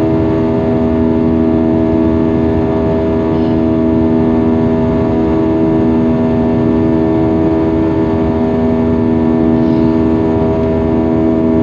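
Airbus A320 jet engines heard inside the cabin: a loud, steady drone with several fixed humming tones over a rushing rumble.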